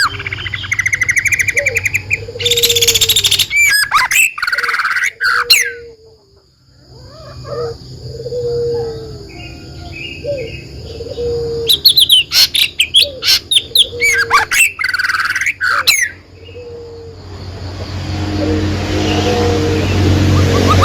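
Songbirds chirping and trilling in loud clusters of quick, high notes, with a short lull about six seconds in. Under them, a low, short falling note repeats about once a second.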